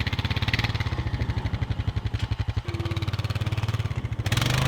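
A vehicle engine running with a fast, even throbbing beat. Its note shifts about two-thirds of the way through, and it gets louder near the end.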